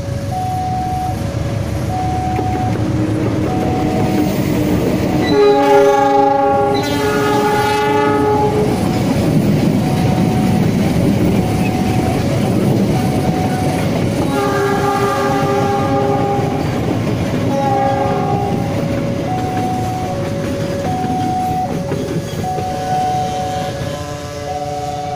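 CC 206 diesel-electric locomotive hauling a rake of coaches passing close by, wheels rumbling and clattering over the rail joints. Its horn sounds about five seconds in and again about fourteen seconds in. A two-note warning chime alternates steadily throughout, typical of a railway level crossing.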